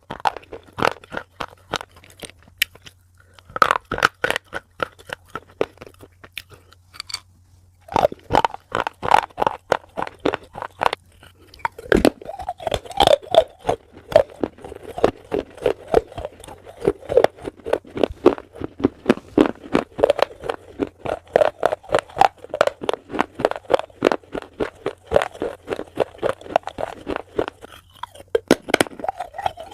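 Close-miked chewing of crunchy food: crisp crunches in quick succession, several a second, thinning out for a few seconds early on before picking up again.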